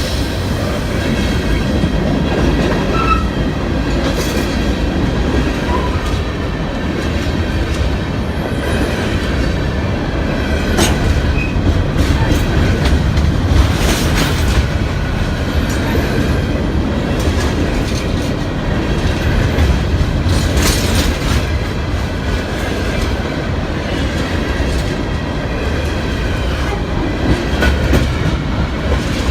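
Train rolling past close by: a steady rumble with wheels clacking over rail joints, and now and then a brief faint wheel squeal.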